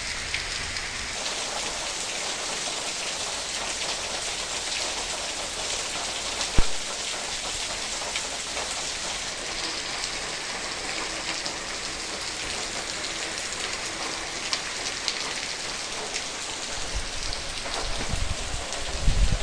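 Heavy tropical downpour: a steady hiss of rain on leaves and pavement, with water running over a flooded terrace. One sharp knock comes about a third of the way in, and low rumbling sets in near the end.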